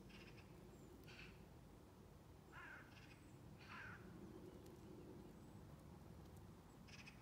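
Faint bird calls: about six short calls, unevenly spaced, over a quiet outdoor background.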